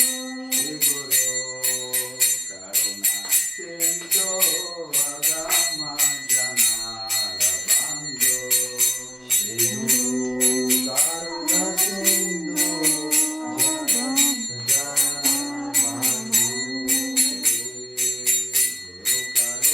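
Devotional kirtan music: a melodic chant sung over a steady, fast rhythm of small ringing hand cymbals (kartals).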